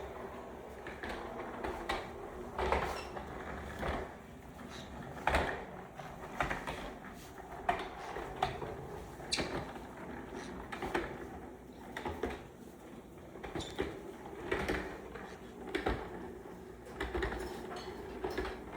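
Small motorised toy vehicle running with a steady hum, with irregular knocks and clicks as it rolls along.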